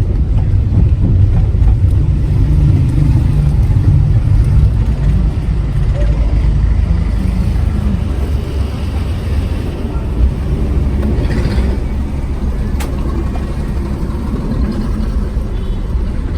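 Cabin noise of a Suzuki Cultus hatchback being driven: its small three-cylinder engine running under a heavy low rumble of road and seat vibration picked up through the seat. There is one sharp click about two-thirds of the way through.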